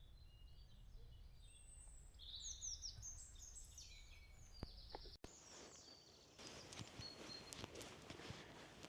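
Faint wild birdsong: a run of quick, high chirping phrases about two seconds in. After a sudden break about five seconds in, a faint rustle with scattered light ticks and a thin high note.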